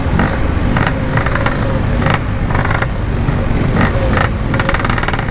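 Yamaha RX King two-stroke motorcycle running along the road, its engine under a heavy, uneven rumble of wind on the microphone.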